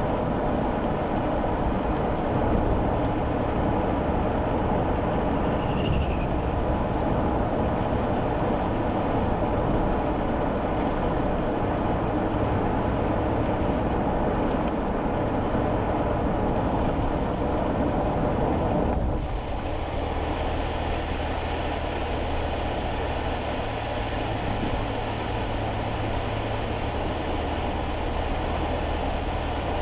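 Steady tyre and road noise on a wet road with the low hum of a kei car's small engine, heard inside the cabin. About two-thirds of the way through, the road noise drops a little and stays lower.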